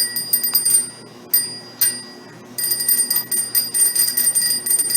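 A child's bike bell rung over and over with the thumb lever. A quick flurry of rings and two single dings are followed, about halfway in, by fast, steady ringing.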